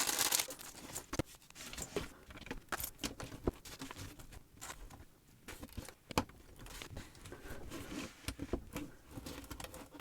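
A small plastic parts bag crinkling as it is opened, then small plastic building bricks clicking and rattling as they are handled, in irregular, scattered clicks.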